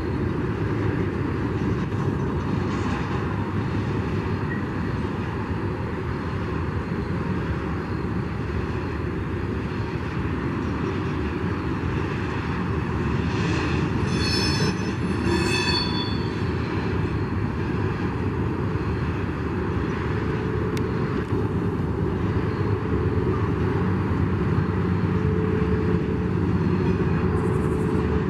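CSX coal train rolling past, a steady rumble and clatter of wheels on rail, with a few brief high squeals about halfway through.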